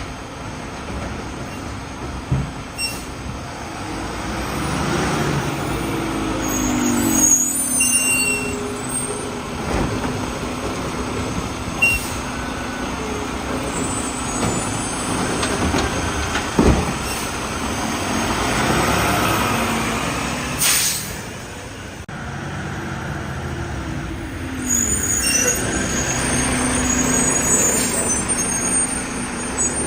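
Boivin Evolution side-loading garbage truck collecting bins: its diesel engine runs steadily while the electric automated arm whines, rising and falling twice as it cycles. There is a sharp knock about two-thirds of the way through, then a short air-brake hiss.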